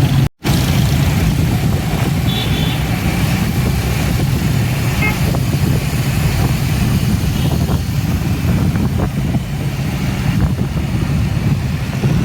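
Busy city road traffic: a steady low rumble of engines and tyres, with a couple of faint short horn toots. The sound cuts out completely for a moment just after the start.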